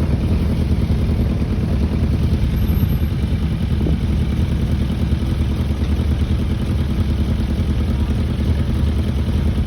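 Motorcycle engine running steadily at a low, even speed, with no revving.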